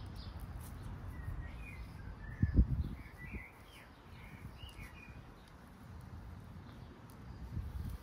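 Small birds chirping several short times, with a low rumble underneath and one low thump about two and a half seconds in.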